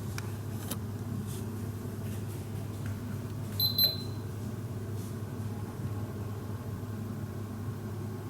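A steady low electrical or mechanical hum, with a short, high double electronic beep about three and a half seconds in.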